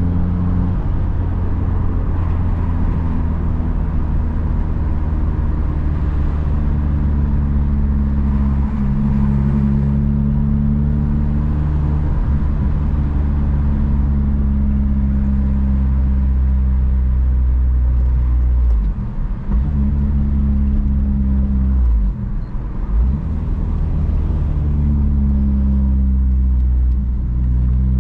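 Honda Civic Si engine and exhaust running under way at steady revs, a steady engine note. The note briefly drops away twice a little past the middle, and begins to rise at the very end.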